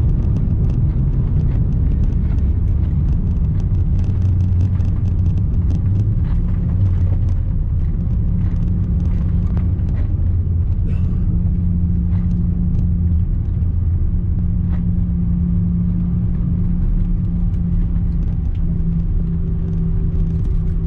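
Cabin noise inside an Airbus A340-300: a steady low rumble with scattered light rattles and clicks.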